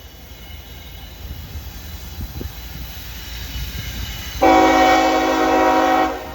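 CSX freight diesel locomotive rumbling low, then sounding its horn about four seconds in: one blast of about a second and a half, several tones at once, which cuts off sharply.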